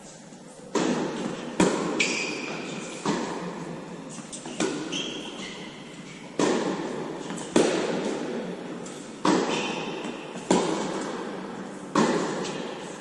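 Tennis rally: sharp ball hits off rackets and the court, roughly one every second or so, each echoing, with a few short high squeaks in between.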